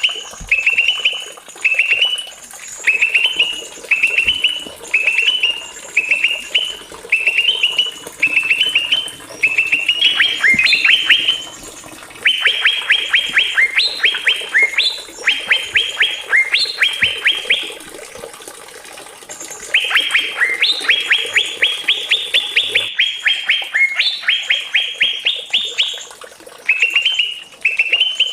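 Small songbird singing a masteran recording: short bursts of rapid, high chattering notes repeated about once a second, running into long rolling trills twice in the middle.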